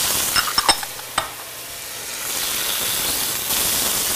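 Chopped vegetables and tomatoes sizzling in an enamelled pot, with a few sharp clicks about half a second and a second in. The sizzle drops for a moment, then builds again as a wooden spoon stirs the pan.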